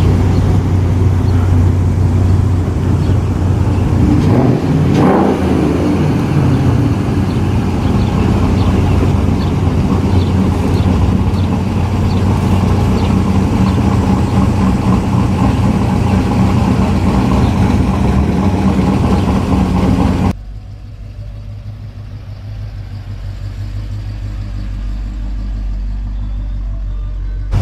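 Car engines running steadily, with a rise and fall in pitch about five seconds in, like a brief rev or a car passing close. About twenty seconds in the sound cuts suddenly to a much quieter low rumble.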